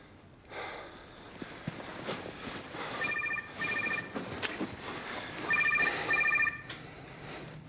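Telephone ringing in a double-ring cadence: two pairs of short trilling rings, the second pair about two and a half seconds after the first. A few soft knocks sound between them.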